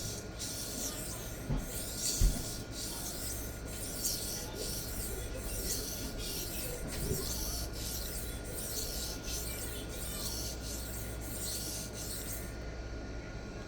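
Knife blade being stroked across the 1200-grit side of a Sharpal diamond sharpening plate, a rhythmic scraping rasp of steel on diamond with strokes a little over one a second. The strokes pause shortly before the end. There are two light knocks about a second and a half and two seconds in.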